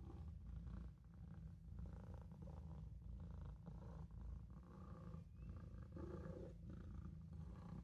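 Maine Coon kitten purring steadily, a soft low rumble.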